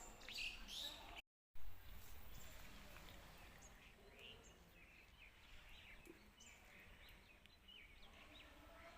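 Faint birds chirping in short, high calls over quiet outdoor background noise, with a brief cut-out in the sound about a second in.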